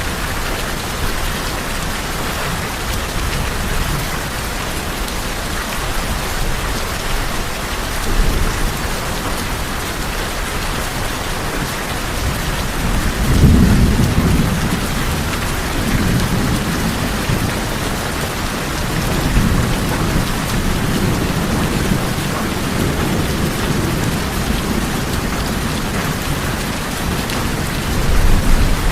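Steady rain falling on a tin roof, with low thunder rumbling in several swells: about halfway through, again later, and near the end.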